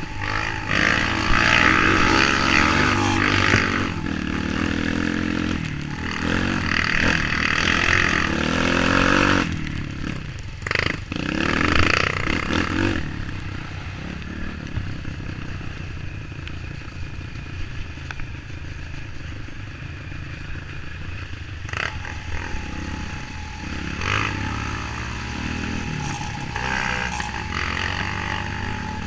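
Off-road trail motorcycle engine revving hard in three surges in the first half, then running steadier at lower revs with a couple of smaller surges near the end.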